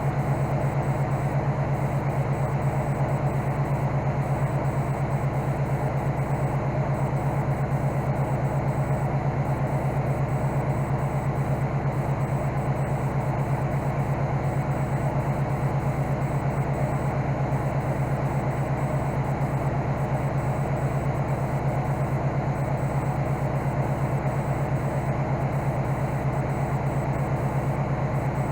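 Case skid steer's engine idling steadily, an even low running note with no change in speed.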